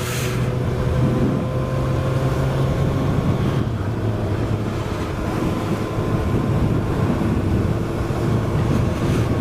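Suzuki GSX-S1000's inline-four engine running at a steady cruise under way, with wind noise buffeting the microphone.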